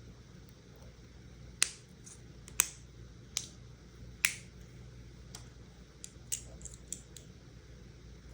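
Plastic LEGO pieces clicking and tapping as they are handled: four sharp clicks a second or so apart in the first half, then several lighter ticks.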